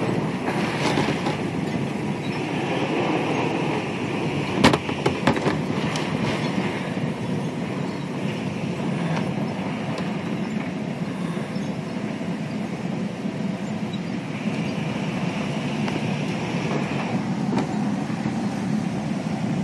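Strong storm wind roaring steadily, with a sharp crack and a few snaps about five seconds in.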